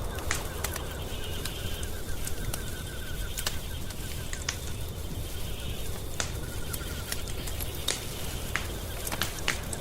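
Wood fire crackling in a fireplace: a steady low rumble with frequent sharp pops and snaps. A faint rapid trilling call comes and goes twice over it.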